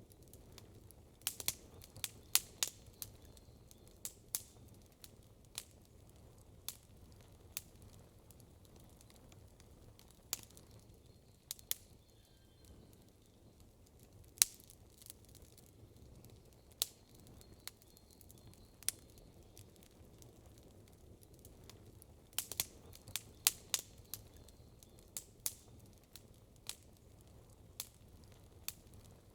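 Wood campfire crackling: sharp, irregular pops and snaps, coming in quick clusters about two seconds in and again near the three-quarter mark, over a faint low background rumble.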